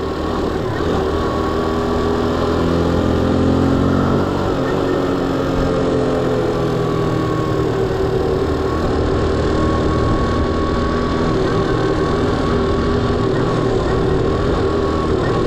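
Motorbike engine running under way, its note climbing over the first few seconds, easing off, then holding steady.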